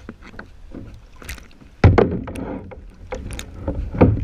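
Kayak and paddle on the water: light knocks and water sounds, then a sudden heavy thump just under two seconds in and another strong knock near the end.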